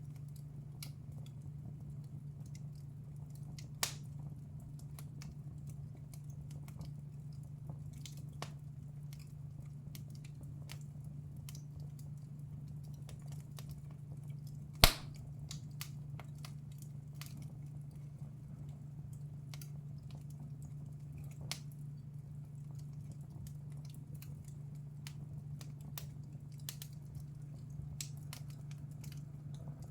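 Wood fire crackling in a fireplace: scattered small crackles and snaps, with one loud pop about halfway through, over a steady low hum.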